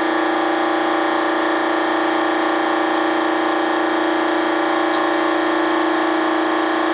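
Steady machine drone from a running motor: one constant pitched hum with many overtones, holding the same pitch and level throughout.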